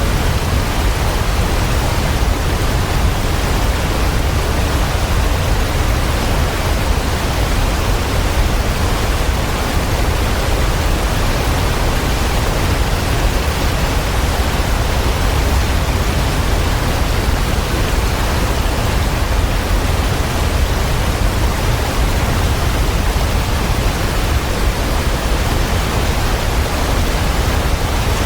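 Waterfall: a steady, unchanging rush of falling water with a deep rumble underneath.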